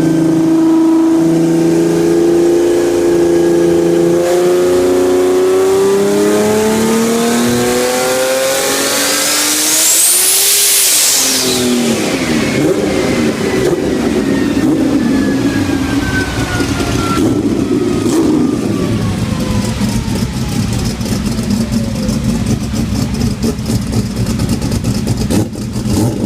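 Turbocharged 2JZ straight-six in a drag car pulling hard on a chassis dyno. Its pitch climbs steadily for about ten seconds, with a rising high whine, then the throttle comes off. After that a long whine falls in pitch as things spin down, and the engine runs on at a choppy, uneven low speed.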